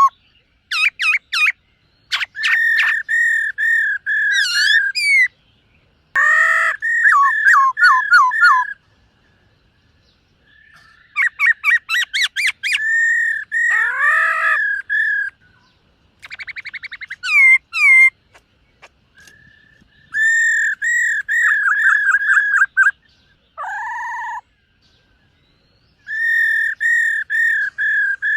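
Black-throated laughingthrush singing: a string of loud phrases, each one to three seconds of quick repeated whistled notes, with short pauses between them.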